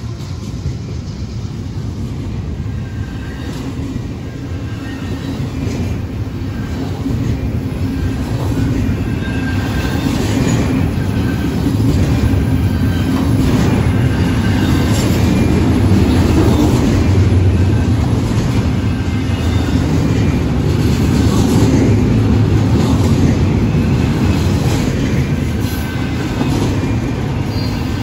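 Double-stack container cars of a Union Pacific freight train rolling past: a steady rumble and clatter of steel wheels on rail, with scattered faint short high squeals. It grows louder toward the middle.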